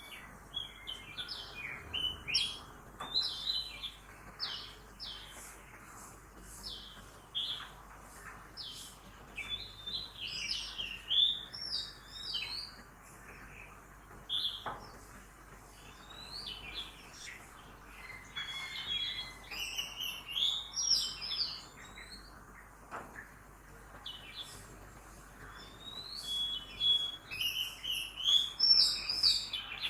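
Several birds chirping and singing at once, a busy run of quick, high notes and short warbled phrases that overlap, with louder bursts now and then.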